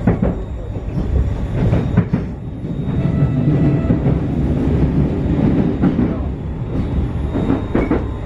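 Cabin sound of a Newag 19WE electric multiple unit running at speed: a steady wheel-and-track rumble with sharp clacks over rail joints and a faint steady whine. The rumble grows louder for a few seconds in the middle as the train passes through a dark underpass.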